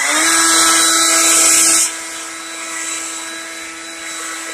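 Leaf blower running at full speed: a steady high whine over rushing air, just after spinning up. The air noise is loudest for the first two seconds, then drops while the motor's whine holds.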